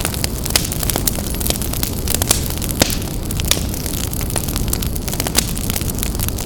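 Wood fire burning in a fireplace, a steady low rumble of flames with many irregular sharp crackles and pops.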